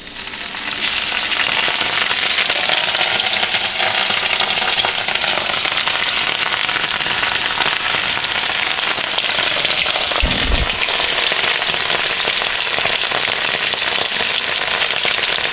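Dorito-crusted catfish fillet frying in a pan of grease at 350°F, sizzling hard and steadily once it settles in within the first second after going in. A brief low thump about ten seconds in.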